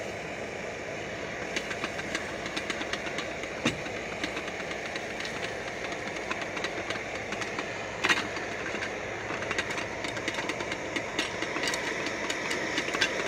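Oil and butter from microwave popcorn sizzling in a canteen cup over the steady hiss of a gas camp stove, with scattered small crackles and one sharper snap about eight seconds in. The kernels have not yet started popping in earnest.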